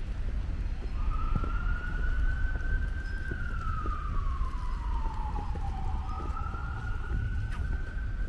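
Emergency vehicle siren in a slow wail: the tone comes in about a second in, rises, sinks slowly, then rises again near the end. A steady low rumble sits underneath.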